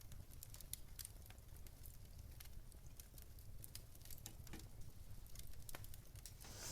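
Fire crackling softly: scattered, irregular sharp pops over a steady low rumble, with a brief rustle near the end.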